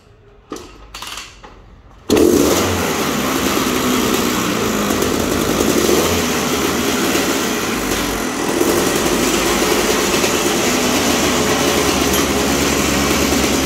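Yamaha YZ250 two-stroke single-cylinder motocross engine running steadily, freshly reassembled and just started. It comes in suddenly about two seconds in, after a quieter stretch with a few short knocks.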